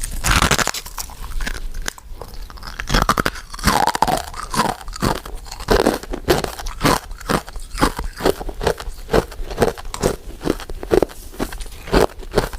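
A person chewing powder-coated mint sweets close to the microphone: a steady run of sharp mouth clicks, two or three a second, after a louder bite near the start.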